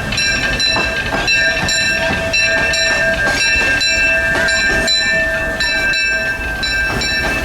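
Disneyland Railroad steam locomotive's bell ringing steadily, about three strokes a second, its tones hanging on between strokes as the train gets under way.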